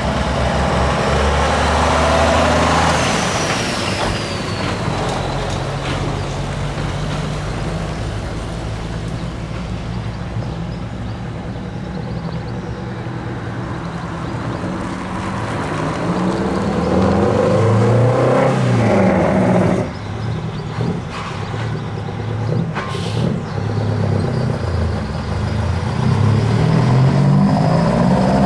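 Heavy truck diesel engines running, with their pitch rising twice as they rev up and pull away, about two thirds of the way through and again near the end.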